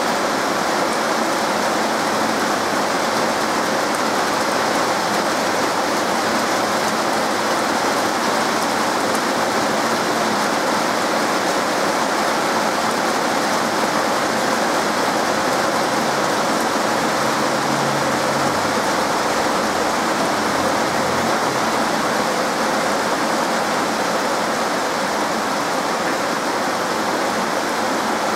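Heavy rain pouring down steadily in a rainstorm, an even, unbroken hiss.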